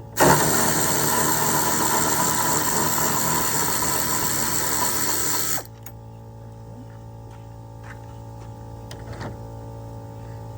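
Compressed air blasting through the engine air filter for about five seconds, a loud steady rush that starts and stops abruptly.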